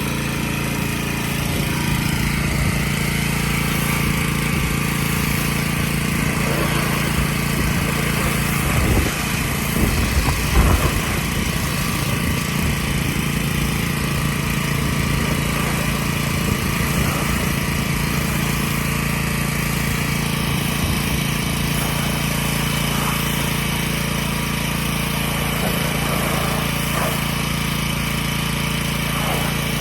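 A motor running steadily at an even pitch, with a short stretch of louder, uneven noise about nine to eleven seconds in.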